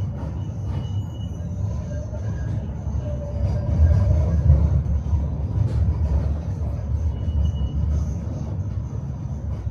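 Tram running on its rails, heard from aboard: a steady low rumble of wheels and running gear that swells about four seconds in, with a faint wheel squeal and a few short knocks.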